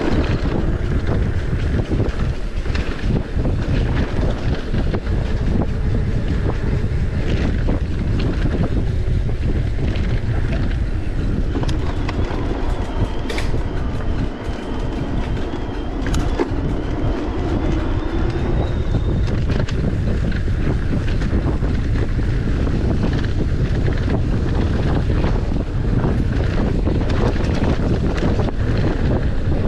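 Wind buffeting the microphone with a constant low rumble and a continuous irregular clatter of small knocks and rattles, as of travelling fast over rough ground. A faint whine rises briefly about halfway through.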